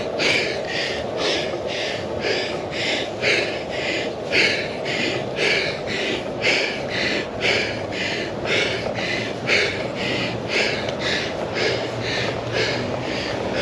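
A cyclist breathing hard and rhythmically, about two puffs a second, labouring on an uphill climb, over a steady rush of wind and tyre noise.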